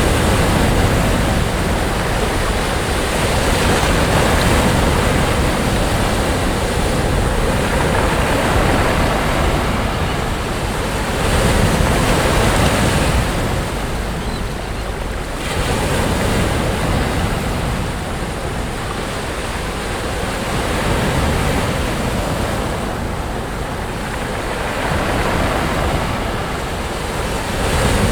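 Sea waves breaking and washing on a beach, the surf swelling and easing every few seconds, with wind buffeting the microphone.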